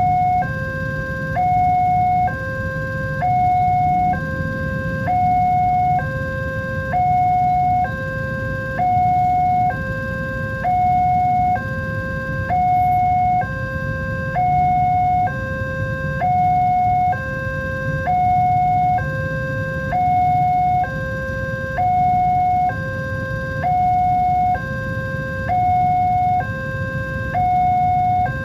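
Electronic two-tone warning alarm of a railway level crossing, switching evenly between a higher and a lower tone about once a second, over a steady low rumble.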